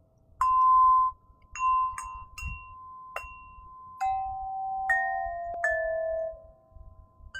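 Crystal harp played as a slow melody: about eight clear notes struck one after another, each beginning with a light click and ringing on so that the tones overlap.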